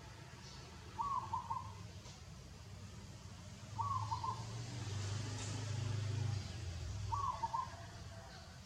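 A bird giving a short, wavering call three times, about three seconds apart, over a low steady hum that grows louder in the middle.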